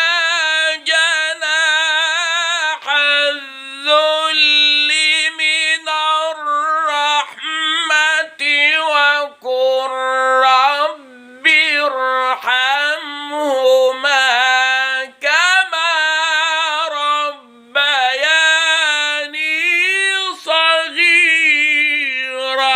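A man reciting the Quran in a melodic, ornamented tajweed style. He holds long notes with wavering, gliding pitch and pauses briefly between phrases.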